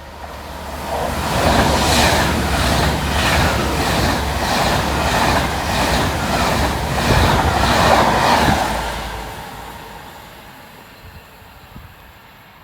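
A train passing at speed, its wheels clattering in a regular rhythm of about two clicks a second as the cars go by, then fading away about nine seconds in.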